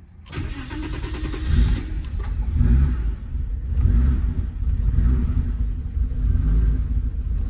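BMW 732i's straight-six engine starting about a third of a second in, then idling with a surging, uneven note: the usual idle pumping just after a start, which settles within a few seconds.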